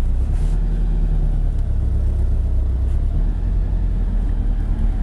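Supercharged four-cylinder engine of a Scion FR-S with reworked exhaust idling, heard from inside the cabin as a steady low drone.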